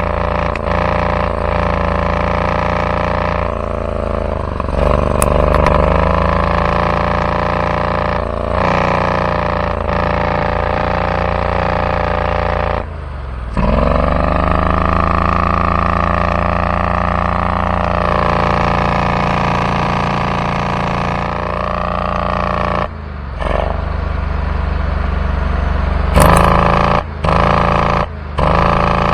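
Rebuilt Kohler engine on a zero-turn mower running steadily, then briefly cutting out about halfway through, its pitch sagging and climbing back. It cuts out again a few times near the end. The owner says this engine won't rev past half throttle and pops back through the intake, which he suspects is a fuel problem.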